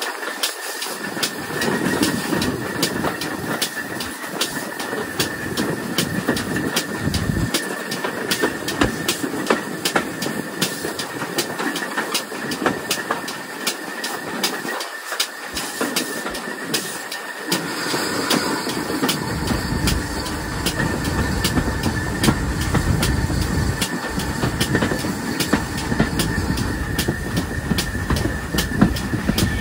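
Steam-hauled train running along the line, its wheels clicking over the rail joints with a steady rumble. The rumble grows heavier about two-thirds of the way through.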